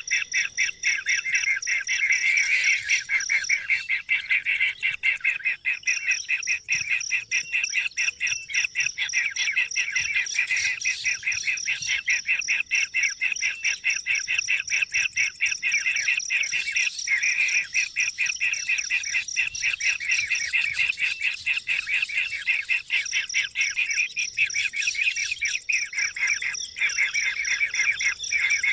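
Birds chirping in a rapid, unbroken stream of short calls, with a steady high-pitched tone behind them that drops out a few times.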